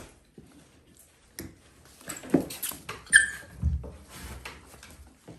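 Dalmatian puppies scuffling and playing, with scattered knocks and scrabbling, a short high squeak about three seconds in, and a low thump just after it.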